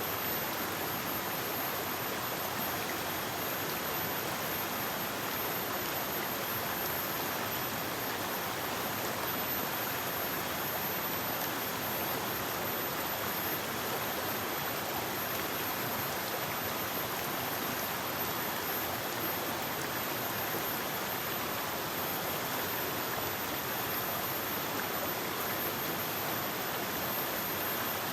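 A forest river rushing over rocks, a steady even wash of flowing water with no breaks.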